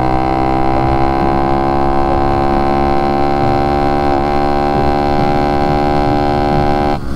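110cc pit bike's single-cylinder engine held at high revs under full throttle, a steady drone that climbs slightly at first and then holds. Near the end the pitch breaks and drops off suddenly.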